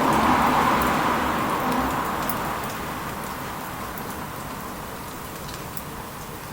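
Wood bonfire crackling with scattered sharp pops in light rain, over a steady hiss. A louder rushing noise at the start fades away over the first three seconds.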